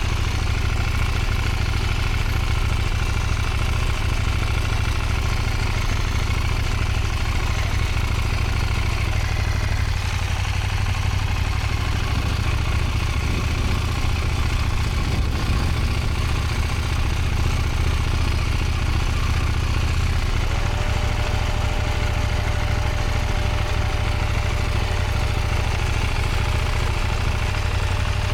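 Motorcycle engine running steadily, with no change in loudness. A faint steady whine joins about two-thirds of the way through.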